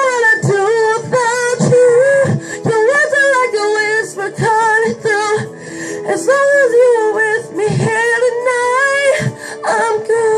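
A woman singing a pop ballad in long phrases with vibrato, over sustained backing chords; the phrases break off briefly about every two seconds.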